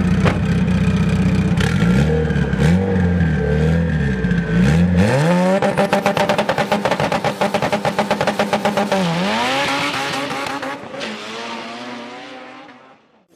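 Car engine revved up and down several times, then accelerating hard at high revs, its pitch dipping briefly about nine seconds in and climbing again before the sound fades away.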